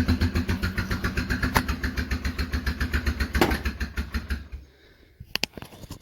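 Polaris Magnum 425 ATV's single-cylinder four-stroke engine chugging in an even rhythm of about seven pulses a second, then fading and stopping about four and a half seconds in. A couple of sharp clicks follow near the end.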